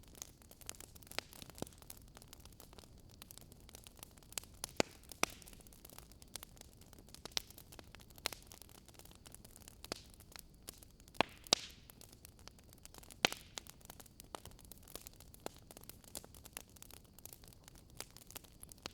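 Wood fire crackling in a fireplace: irregular sharp pops and snaps over a soft, steady hiss, with a few louder pops near the middle.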